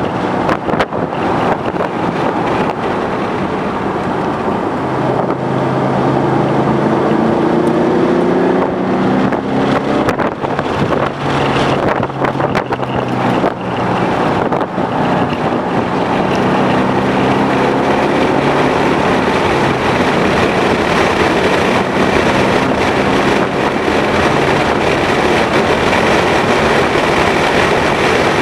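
2011 Ford Mustang GT's 5.0-litre V8 running hard on track, its pitch climbing and dropping several times with throttle and gear changes, under loud wind noise.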